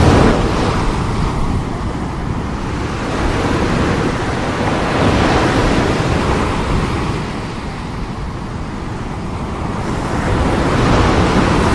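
Strong sea waves breaking and washing on the shore: a loud, continuous rush that swells and ebbs in slow surges, strongest at the start, about five seconds in, and again near the end.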